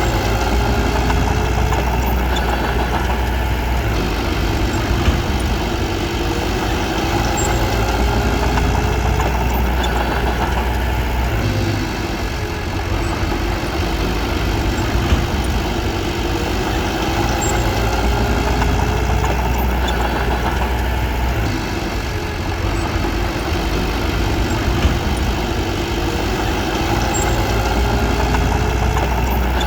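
Diesel engine of a bulldozer running steadily, its level easing and rising every several seconds as the load changes.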